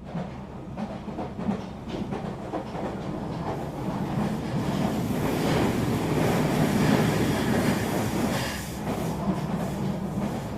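Steady rumbling and rattling of a moving rail vehicle.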